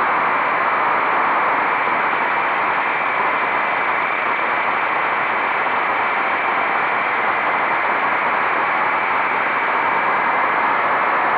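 Motorcycle riding at steady speed, its engine almost buried under a constant rush of wind noise over the microphone.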